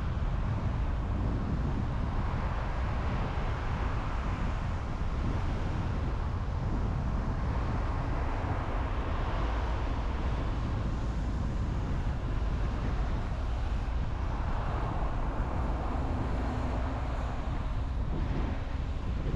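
A car driving at speed: steady road and tyre noise over a low drone, with no change in level throughout.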